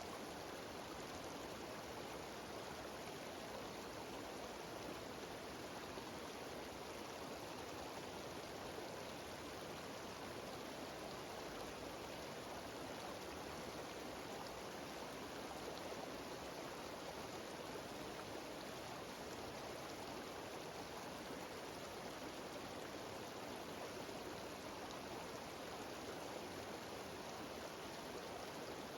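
Steady, unbroken rush of a mountain stream cascading down a series of small waterfalls.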